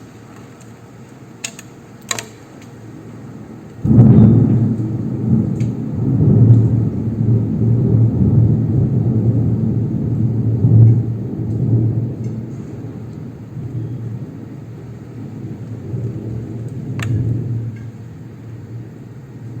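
A thunderclap breaks in suddenly about four seconds in, then rolls on as a long low rumble that swells a few times and slowly fades, over the hiss of rain. A few sharp clicks come before it and one near the end.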